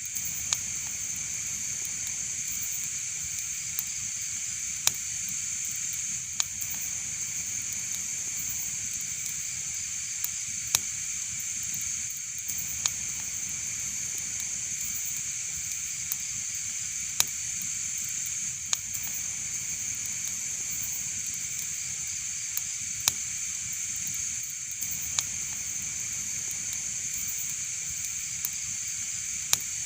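Wood fire burning in a fireplace: a steady high hiss with sharp crackling pops every second or two.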